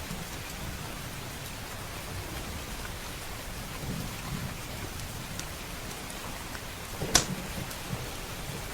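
Steady rain with low rumbles of thunder, small scattered crackles, and one sharp, loud crack about seven seconds in.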